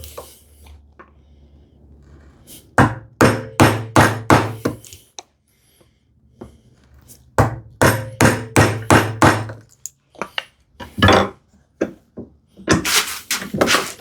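Bevel-edge chisel being struck repeatedly to chop a mortise into a hardwood leg, in runs of sharp knocks about two to three a second with short pauses between them. Near the end comes a longer, rougher crunching sound from the chisel in the wood.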